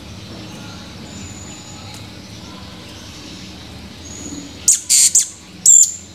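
Blue-crowned hanging parrot (serindit) calling: faint thin high whistles, then a burst of about four loud, shrill, high-pitched calls near the end.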